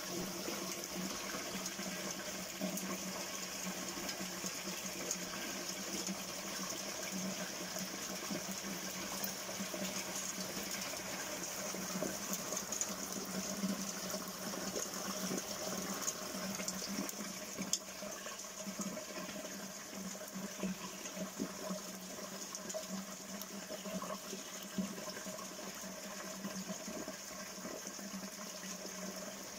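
Steady rain falling on clay roof tiles and splashing into a puddled concrete basin, with single drops ticking now and then.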